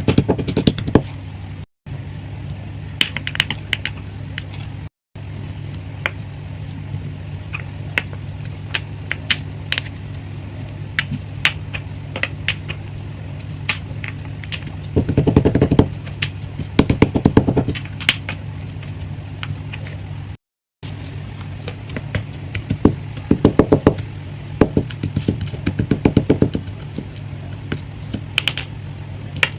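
Chalk crust crunching and crackling as it is pressed and crumbled into powder, in bursts of close-packed crackles with louder runs partway through and again later. A steady low hum runs underneath.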